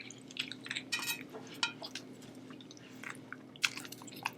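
Sushi being eaten close to the microphone: chewing and small wet mouth clicks, with scattered light clinks and clicks of dishes or utensils and a sharper click near the end.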